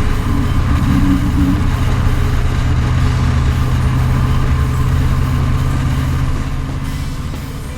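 Ford V8 (Blueprint 408 stroker) in a 1965 Mustang running at a steady, even speed, fading out near the end.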